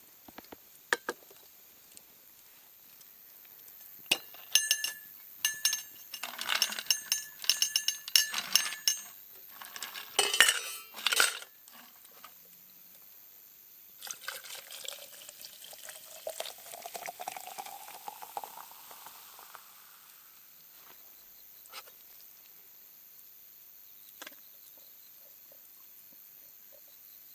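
Several sharp clinks of glassware or metal cups with a short ring. About halfway through, liquid is poured into a vessel, the pouring tone rising steadily in pitch for several seconds.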